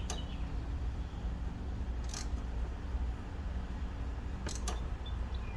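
A few sharp metallic clicks, about two seconds apart, from hand tools (ratchet, extension and spark plug socket) being worked at a newly snugged spark plug, over a steady low hum.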